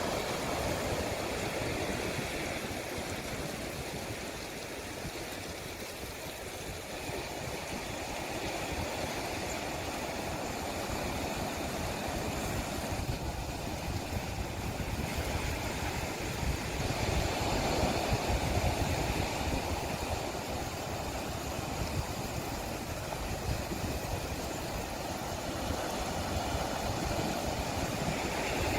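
Steady rushing noise of the sea, with wind buffeting the microphone in a choppy low rumble, swelling a little past the middle.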